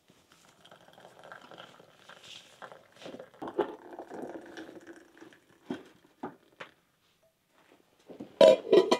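Eggs and sucuk sausage faintly sizzling in a frying pan, with scattered clicks of a utensil against the pan. Near the end comes a louder clatter of sharp clicks.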